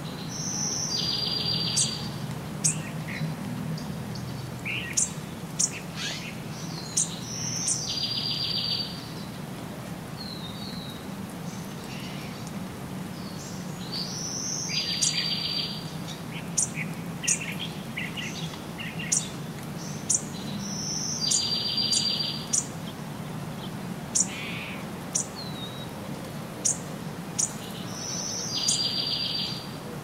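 Songbirds singing and calling, with many brief high chirps. One bird's song comes back about every seven seconds: a short high note and then a trill of about a second. A low steady hum runs underneath.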